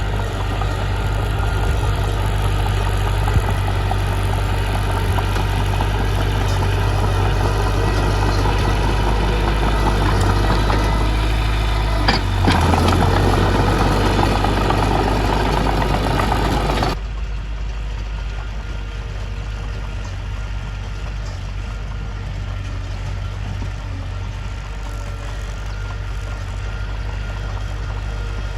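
Mitsubishi bulldozer's diesel engine running steadily with a deep low hum. About seventeen seconds in the sound drops a little in level and turns duller, losing most of its higher-pitched noise.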